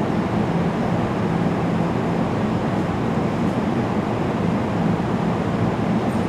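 NJ Transit electric push-pull train standing at the platform, its onboard equipment giving a steady hum with a low drone.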